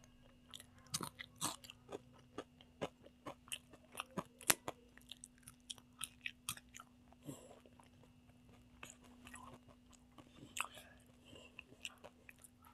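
A person chewing a mouthful of rice eaten by hand, close to the microphone: many sharp wet clicks and smacks of the mouth, dense for the first half, then sparser after a short lull.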